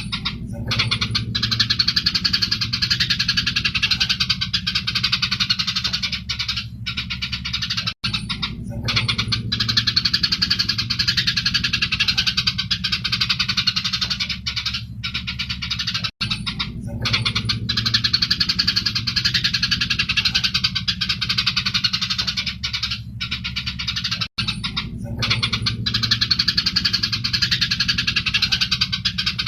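Eurasian tree sparrows (Indonesian 'burung gereja') chirping in a dense, rapid chatter of agitated fighting calls, over a steady low hum. The same stretch of recording repeats about every eight seconds, with a short gap at each loop.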